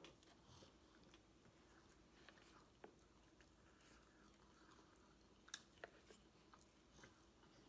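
Faint chewing, with a few soft mouth clicks and smacks scattered through, from someone eating a soft chicken quesadilla in a flour tortilla.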